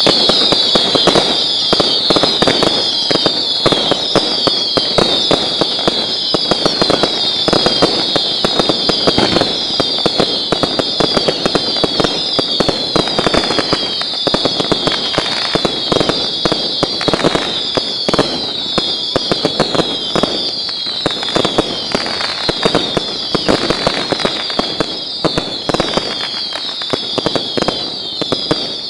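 Fireworks display in full barrage: dense, continuous crackling with many overlapping high whistles that fall in pitch, one after another, about once a second.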